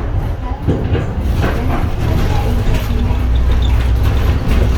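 Inside an Edison Motors Smart 110G low-floor city bus under way: the low drone of its GX12P CNG engine, with road noise and occasional knocks and rattles from the cabin.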